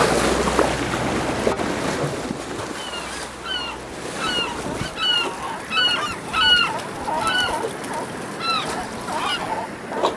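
Seabird giving a run of short, nasal, honking calls, about two a second, over wind and water noise that drops away about halfway through.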